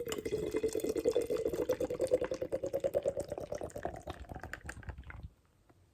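Hazy double IPA being poured into a glass, glugging quickly and evenly, rising slightly in pitch, then stopping a little over five seconds in.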